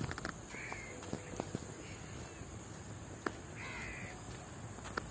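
A bird calling three times in short calls about a second or two apart, the third the loudest, over a steady outdoor background, with a couple of light knocks.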